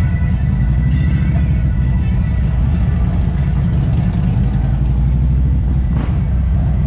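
Harley-Davidson motorcycle V-twin engine running, a deep, rapidly pulsing exhaust rumble.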